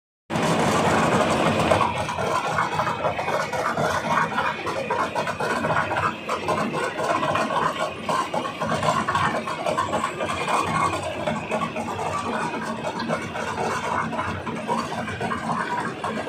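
Tractor-operated transit mixer running, with a steady mechanical din and rapid, irregular clattering throughout.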